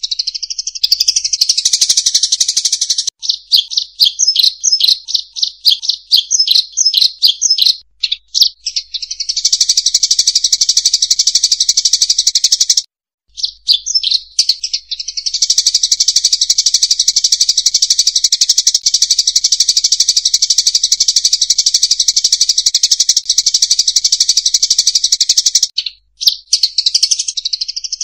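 Munia lure call: a dense, high-pitched chattering of many small finch-like birds, with a stretch of rapid pulsed chirps early on and brief breaks about 13 and 26 seconds in.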